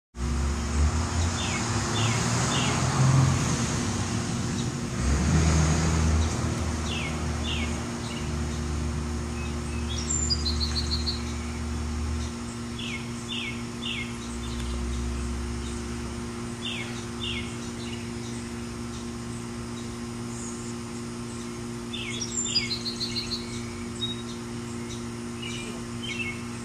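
Birds chirping, one repeating short phrases of two or three chirps every few seconds and another giving a quick falling trill twice, over a steady low hum and outdoor background noise. Low rumbles come and go in the first half.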